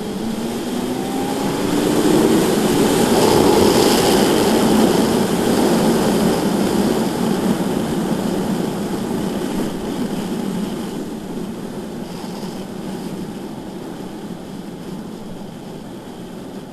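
BMW S1000RR inline-four sport bike engine accelerating hard on track, its note rising in pitch over the first two seconds, under heavy wind rush. The sound then fades gradually.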